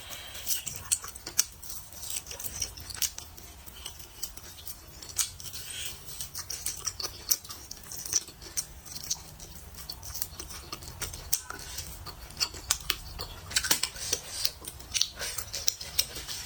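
Close-miked eating sounds: irregular sharp clicks and smacks of chewing, several a second.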